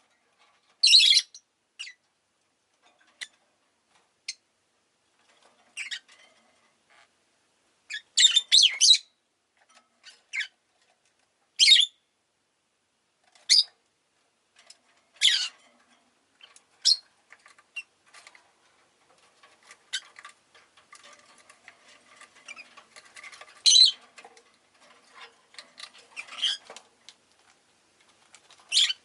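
Rosy-faced lovebirds giving short, sharp, high-pitched chirps and squawks, singly or in quick clusters every second or two, with a faint hum of street noise under the middle stretch.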